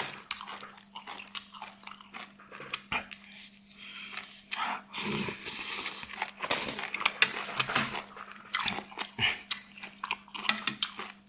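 A person eating close to the microphone: irregular wet chewing and slurping of spicy noodles, with small mouth clicks and smacks.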